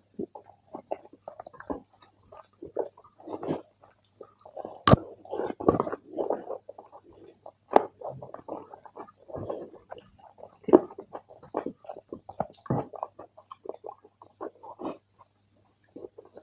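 Close-up mouth sounds of eating kidney-bean curry and rice by hand: irregular wet chewing and lip smacks, with a few sharper clicks about five and eight seconds in.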